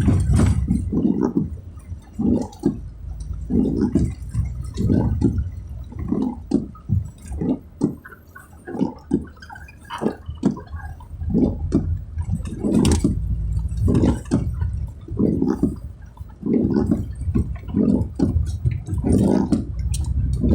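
Car driving on a wet road in the rain, with a low rumble under repeated swishes of water, one or two a second.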